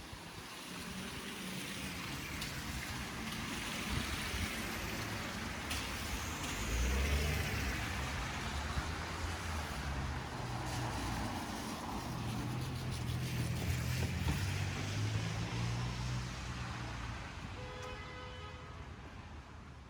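City street traffic: the rumble of passing vehicles and the hiss of their tyres build up over several seconds, hold, then ease off. A brief pitched sound comes near the end.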